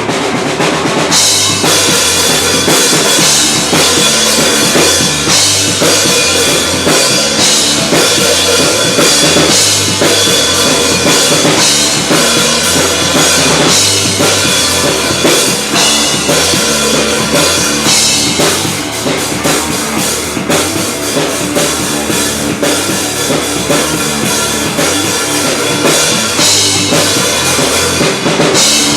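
Live band playing an instrumental passage: a drum kit drives a steady beat with bass drum and snare, over bass and guitar, with cymbals coming in about a second in.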